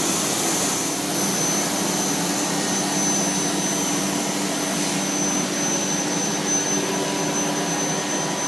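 Holz-Her CNC router running its spindle with a 1/4-inch end mill: a steady high whine over a constant rushing machine noise.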